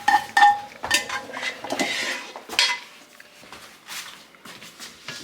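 Metal pots and utensils clanking and clinking: a few sharp ringing clinks in the first half-second, then scattered knocks and scraping through the rest.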